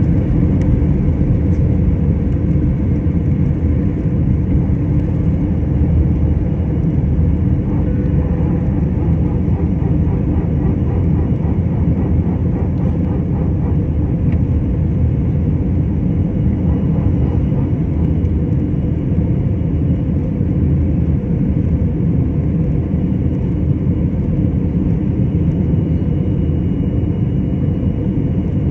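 Jet airliner taking off, heard from inside the passenger cabin: a loud, steady rumble of the engines at high thrust and the rushing air, with no sudden changes.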